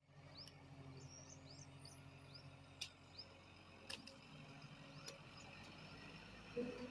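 Faint outdoor sound: a bird giving short rising chirps, about two a second in the first few seconds, over the low steady hum of the excavator's engine, with a few sharp clicks.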